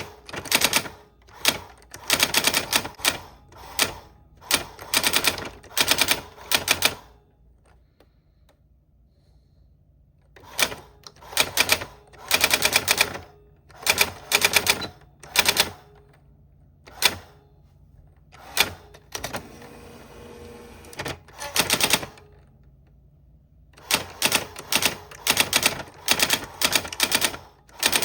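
Typewriter keys striking in quick bursts of clacks separated by short pauses. About two-thirds of the way through comes a rasping sound lasting about two seconds.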